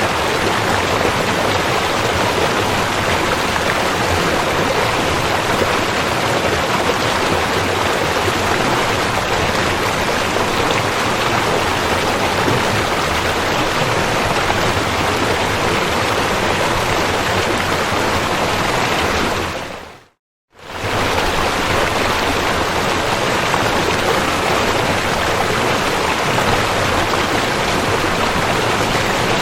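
River water rushing steadily. About two-thirds of the way through it fades out to silence for about half a second and fades straight back in, a splice or loop point in the recording.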